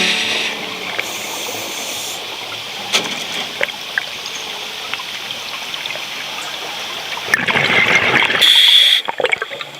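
Water trickling and gurgling, with scattered small clicks, swelling into a louder rush of water about seven seconds in.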